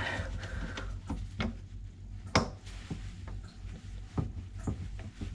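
Scattered knocks and clicks of a sink trap being unscrewed and handled under a sink, with one louder knock about two and a half seconds in.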